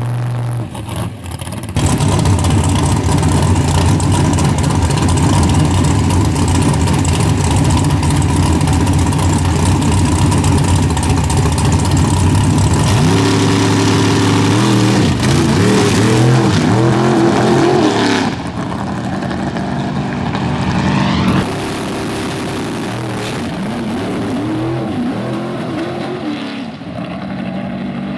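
Drag-race car engine running loud and steady, then revving up and down several times with rising and falling pitch, the sound changing abruptly twice as if cut between shots.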